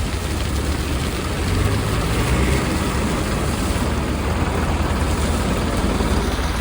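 A heavy vehicle's diesel engine running steadily and loudly close to the microphone, with a deep low rumble under a lot of broad noise.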